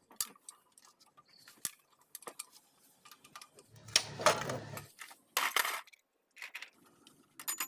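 Metal tools and engine parts clinking and ticking during engine teardown work, with a louder, noisier burst lasting about a second about four seconds in and a shorter one soon after.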